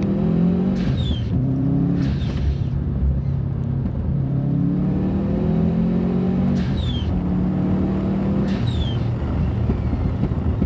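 Subaru Forester STI's turbocharged EJ255 flat-four engine heard from inside the cabin while driving. The engine note rises in pitch and drops back several times as the car pulls through the gears.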